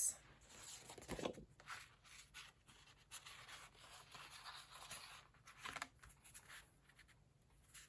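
Faint rustling of fabric and paper pieces being handled and laid out, with a few light taps.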